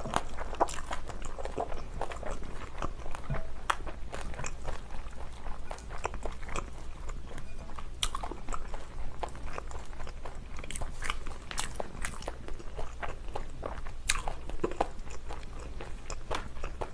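A person chewing napa cabbage kimchi: an uneven run of small crunches and sharp clicks.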